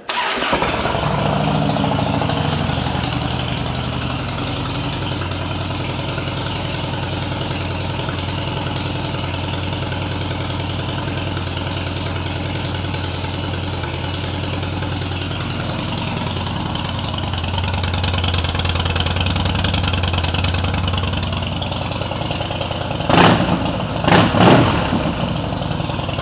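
2007 Harley-Davidson Heritage Softail's Twin Cam V-twin with Vance & Hines pipes starting up and settling into a steady, loping idle. Near the end the throttle is blipped twice in quick succession.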